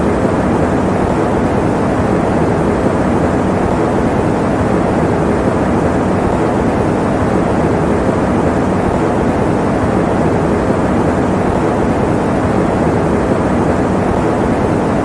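Electric fan running steadily, a constant deep rushing noise with no changes.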